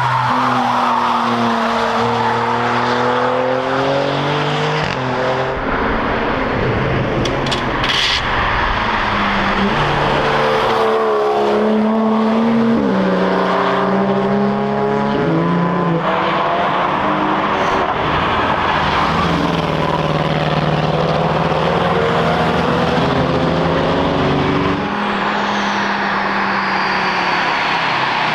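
Several cars passing one after another at speed on a race track, engines revving and changing pitch as each one goes by.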